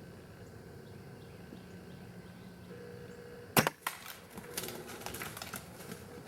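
A bow shot: one sharp snap about three and a half seconds in, followed by scattered crackling and rustling.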